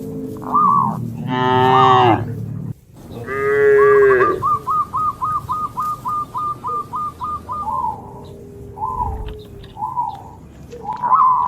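Cattle mooing: two long calls, the first about a second in and the second about three seconds in. They are followed by a fast run of short, high chirping calls, about four a second, with a few more such chirps near the end.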